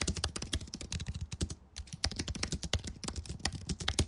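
Rapid computer-keyboard typing: a dense run of key clicks with a brief pause about a second and a half in.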